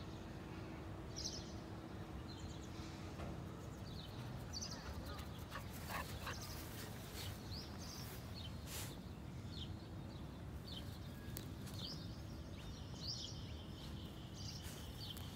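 Outdoor ambience: small birds give short, scattered chirps over a steady low background rumble, with a few brief clicks or rustles around the middle.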